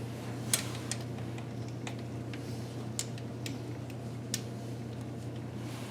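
Scattered sharp metallic clicks of a socket ratchet working a lower intake manifold bolt, a few clicks at uneven intervals, over a steady low hum.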